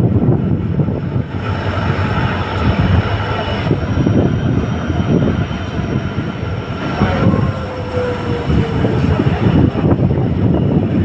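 Passenger train running, heard from on board: a steady rumble of wheels on the track, with a faint falling whine about seven seconds in.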